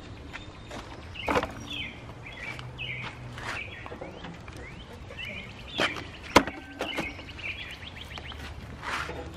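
Small birds chirping on and off, with a few sharp clicks and knocks, the loudest about six seconds in, over a low steady hum.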